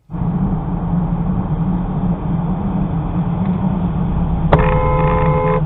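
Steady road and engine noise of a moving car picked up by a dashcam, with a car horn sounding once for about a second near the end.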